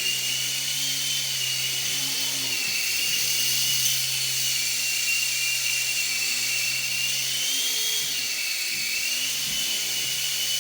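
Skyrover Knight Vision toy RC helicopter in flight, its small electric rotor motors giving a steady high-pitched whine that rises and falls slightly in pitch as the throttle is worked.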